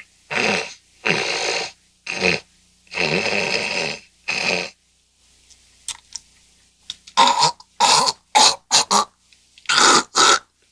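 A man snorting and hawking, clearing his nose and throat in a run of loud, rough bursts that come quicker and shorter in the second half.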